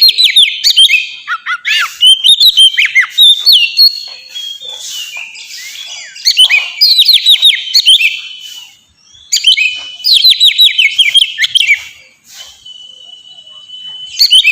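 Oriental magpie-robin (kacer) singing loudly in an open, full 'ngeplong' song: phrases of rapid, falling whistled notes come every couple of seconds with short pauses between them, and near the end one long, steady whistle.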